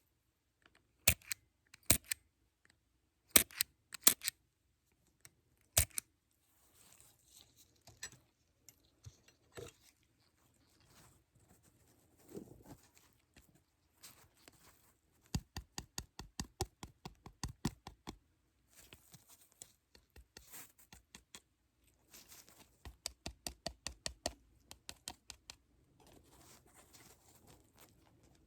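Close-miked ASMR trigger sounds: a handful of sharp clicks in the first six seconds, then quieter runs of rapid light tapping, several taps a second, in two longer bursts later on.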